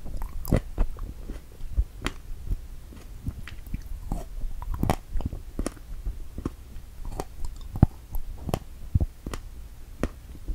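Close-miked chewing of a strawberry Santa, a strawberry topped with whipped cream: irregular wet clicks and soft mouth smacks, a few each second.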